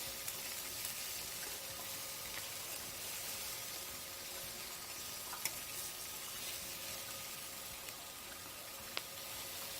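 Flour-dusted chicken pieces frying in medium-hot oil: a steady sizzle with a few faint pops.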